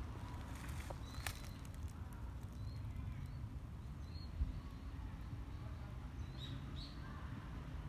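Wild birds giving short, high chirps now and then over a low steady rumble, with a few sharp clicks about a second in.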